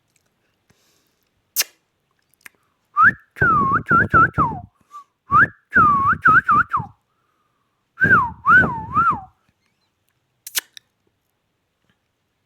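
Three short whistled phrases, each warbling up and down in pitch, about a second and a half apart. A sharp click comes before them and another after.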